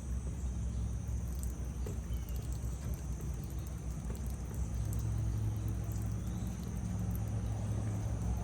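A motor running steadily with a low hum that grows a little stronger about five seconds in, under a steady high insect drone, with a few faint ticks.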